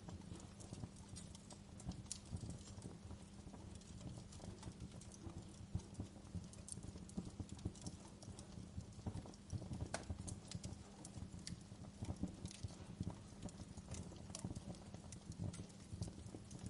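Wood fire crackling in a fireplace: a steady low rumble of flames under constant irregular small pops, with a few sharper snaps.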